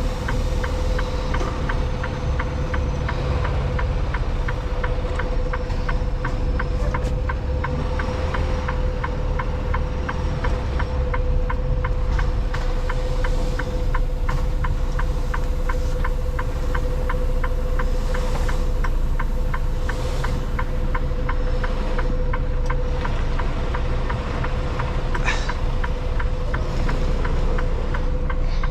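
Semi truck's diesel engine running low and steady, heard from inside the cab, with a steady hum and a fast, even ticking throughout.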